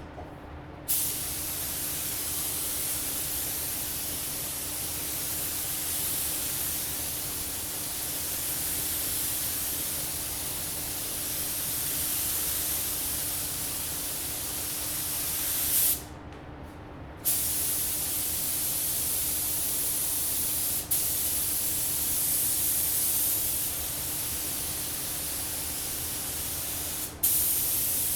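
Compressed-air automotive paint spray gun hissing steadily as base coat is sprayed on. It cuts out for about a second and a half partway through and breaks briefly twice more, as the trigger is released between passes. A faint steady low hum runs underneath.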